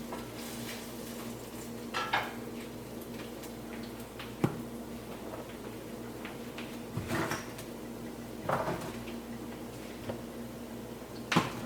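Metal utensils knocking and clattering against a pan a handful of times, over a steady low hum.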